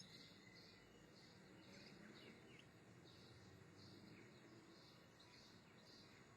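Near silence with faint background chirping: a high chirp repeating about twice a second, with a few fainter, shorter chirps mixed in.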